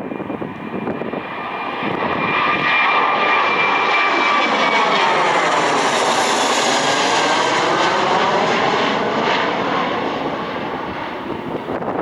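An airliner taking off and passing by. Its engine noise swells over the first couple of seconds, stays loud through the middle and fades near the end, with a whine that slowly falls in pitch as it goes past.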